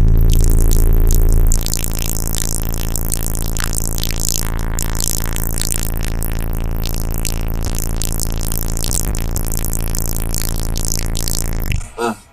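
Bass-heavy electronic hip-hop beat played loud through a car audio system with four Resilient Sounds 18-inch subwoofers, the deep bass dominating. The music drops out briefly near the end.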